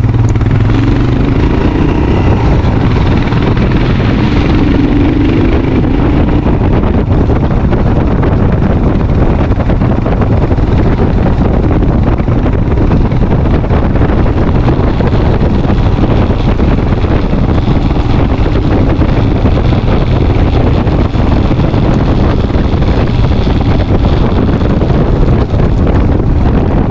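Strong wind rushing over the microphone of a moving vehicle, a steady loud roar, with an engine running underneath that shows most in the first few seconds.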